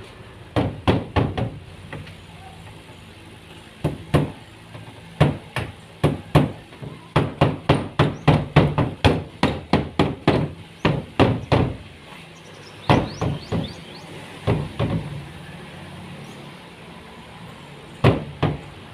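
Hammer blows in short bursts, with a long steady run of about three strikes a second in the middle, typical of hammering during carpentry.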